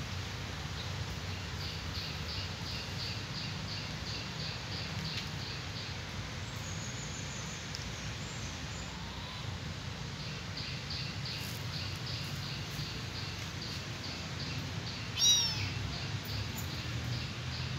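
Outdoor ambience with a bird chirping repeatedly, short high notes about four a second in two runs, over a low steady background hum. About fifteen seconds in comes a single short, louder cry.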